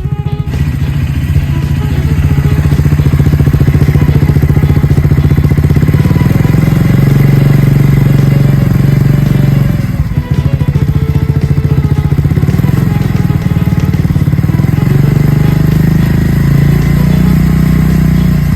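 Triumph Scrambler 400 X's single-cylinder engine running at raised revs, dropping briefly about ten seconds in, then picking up again near the end.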